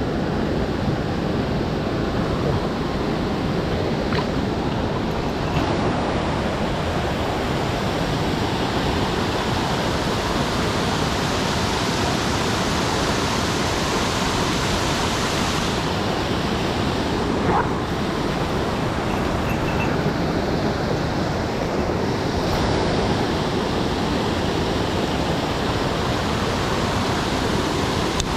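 Mountain stream water rushing and tumbling over rocks, a steady loud rush with a couple of faint clicks.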